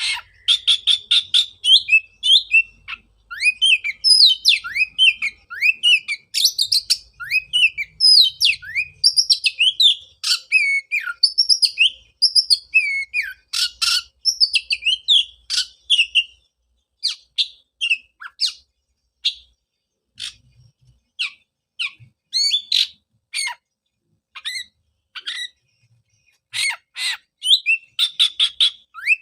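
Oriental magpie-robin singing a varied song of quick whistled slurs mixed with harsh chattering notes, in dense runs at first and in shorter, more spaced phrases in the second half. It is a 'pancingan' song, played to prompt caged magpie-robins that have gone silent after moulting to sing again.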